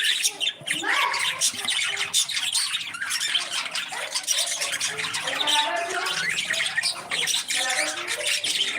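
Several parrots chattering and squawking at once, a dense, unbroken mix of short overlapping calls.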